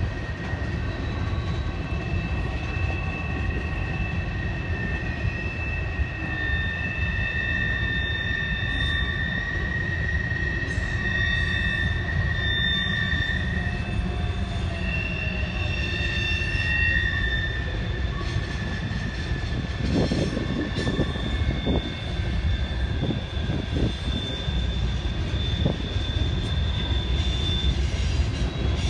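Freight train rolling through the junction with a steady low rumble of cars and wheels and a continuous high squeal of wheel flanges on the rails, a few low thuds about two-thirds of the way through.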